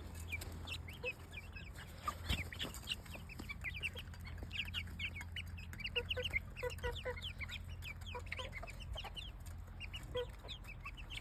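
A group of chicks peeping continuously, many short high cheeps overlapping several times a second, with now and then a lower cluck.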